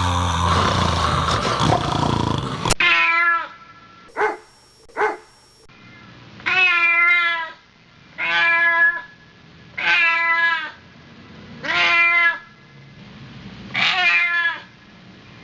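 A loud, dense sound cuts off abruptly a few seconds in. After it, a cat meows again and again, one meow about every two seconds, each meow nearly the same shape, like one recording repeated.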